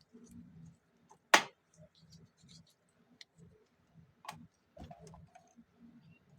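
Light clicks and taps of small parts being handled, with one sharp click about a second and a half in and another about four seconds in.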